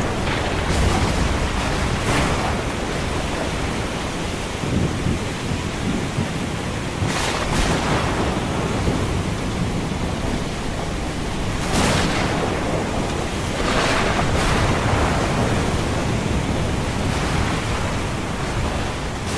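Ocean surf in a steady wash of noise, with waves surging in every few seconds, mixed with a thunderstorm's low rumbling thunder.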